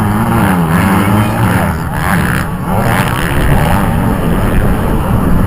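Kawasaki KX450F motocross bike's four-stroke single-cylinder engine revving, its pitch rising and falling again and again as the throttle is worked.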